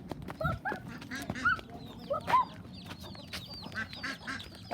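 A flock of backyard chickens clucking while feeding: many short calls overlapping, with a run of thin high calls in the second half.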